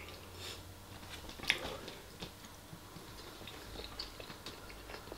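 Close-up chewing of a mouthful of meatballs and rice, with small wet mouth clicks and a sharper click about a second and a half in.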